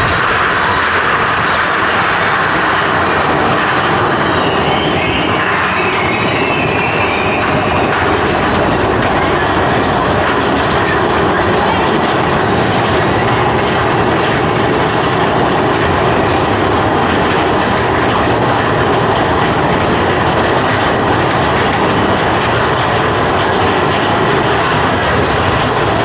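Big Thunder Mountain Railroad mine-train roller coaster running on its track: a steady rattle and clatter of the wheels, with a wavering squeal a few seconds in.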